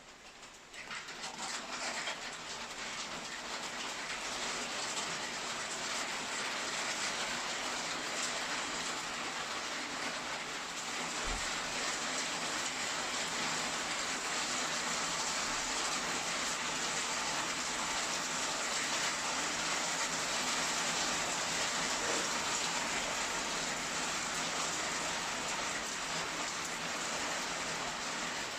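Heavy rain falling steadily, building up over the first couple of seconds into a dense, even downpour.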